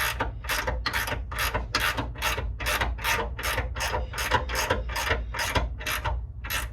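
Hand ratchet wrench clicking in quick, even back-and-forth strokes, about three a second, as it runs a nut down a long bolt toward snug.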